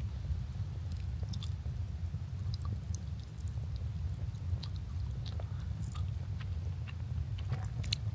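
A person chewing food close to the microphone: small, irregular mouth clicks and crunches over a steady low hum.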